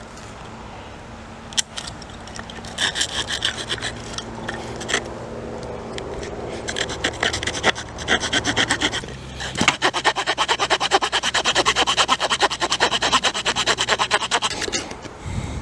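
Hand saw cutting wood in rhythmic back-and-forth strokes: a few short spells at first, then a long, quick, steady run of strokes that stops just before the end. A single sharp knock comes early on.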